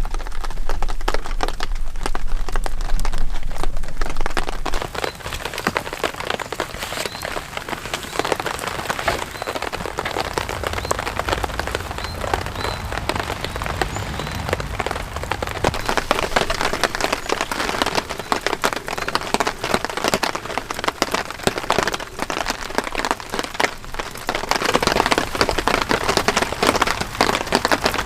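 Heavy rain falling, dense drops striking a surface. A low hum underneath stops about five seconds in, and the rain grows louder near the end.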